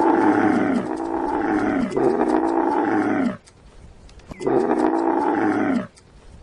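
Dromedary camel calling: a string of long calls, each falling in pitch, three running back to back, then after a short pause one more.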